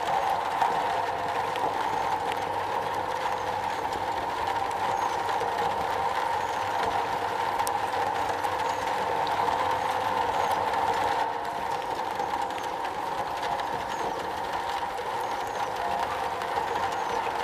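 Rain falling steadily on a metal roof: a dense, even patter with scattered faint sharp ticks, easing slightly about eleven seconds in.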